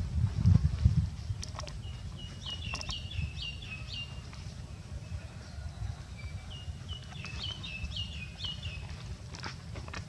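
A songbird singing two phrases of quick repeated chirping notes, each note flicking up then dropping, the second phrase starting about halfway through. Under it runs a low rumble, strongest in the first second.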